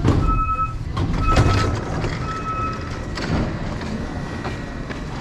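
An electronic warning beeper sounding a steady high beep about once a second, stopping about three seconds in, over a low rumble of station noise.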